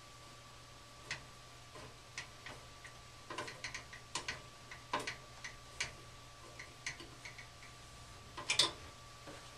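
Irregular light clicks and taps from hand work with tools and parts on a gas furnace, about a dozen spread unevenly, with a louder cluster near the end, over a steady low hum.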